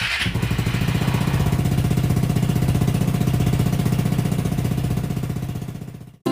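A motorcycle or scooter engine running steadily with a fast, even pulse, fading away near the end.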